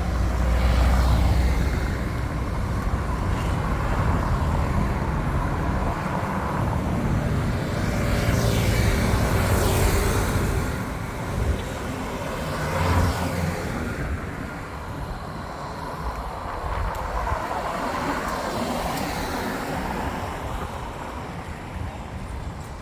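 Road traffic, with motor vehicles passing close by one after another and the sound swelling and fading as each goes past.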